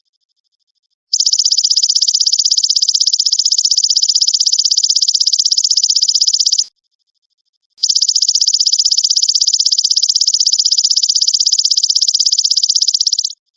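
Belalang emas (golden grasshopper) stridulating: two long, high, fast-pulsed buzzing trills of about five and a half seconds each, the first starting about a second in and the second after a pause of about a second.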